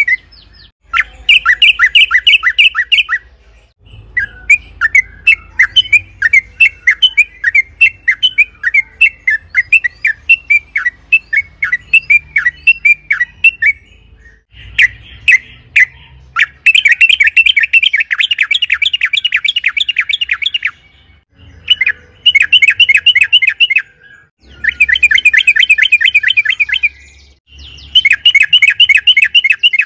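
Yellow-vented bulbul (trucukan) singing in rapid chattering trills: bursts of quick repeated notes, each a few seconds long, with short pauses between them and a looser, slower run of notes in the first half.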